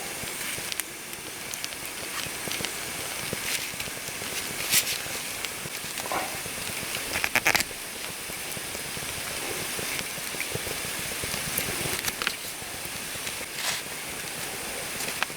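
Campfire crackling: scattered sharp pops and snaps over a steady hiss, with a few louder pops about five and seven and a half seconds in.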